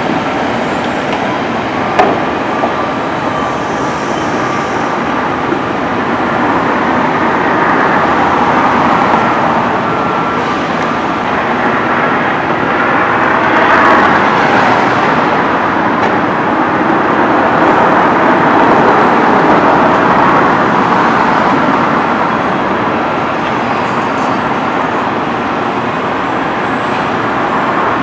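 Steady rushing noise of a moving vehicle, swelling louder through the middle, with a sharp click about two seconds in.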